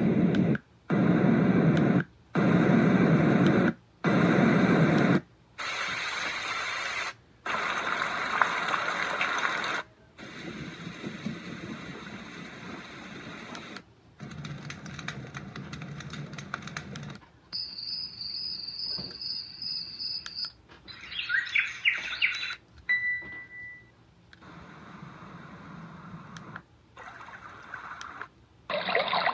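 Yogasleep Duet white noise machine's speaker stepping through its sounds, each playing for one to a few seconds with short breaks between. First several kinds of hissing noise, deep and full at first, then thinner and higher; then a high steady tone, a couple of seconds of bird-like chirps, and more noise.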